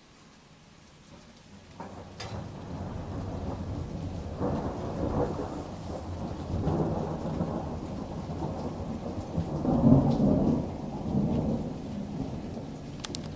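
Thunder rolling: a long, deep rumble that builds about two seconds in and swells several times, loudest about two-thirds of the way through, with rain falling underneath.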